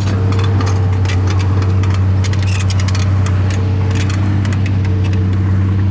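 Miniature model bulldozer running with a steady low engine drone, with scattered clicks and rattles over it.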